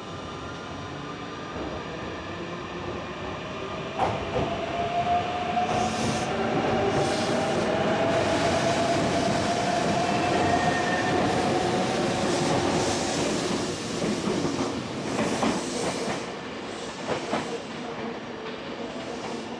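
Electric train running close by: a motor whine rises slightly in pitch as it gathers speed, over the rumble of the wheels, with wheels clattering over rail joints near the end.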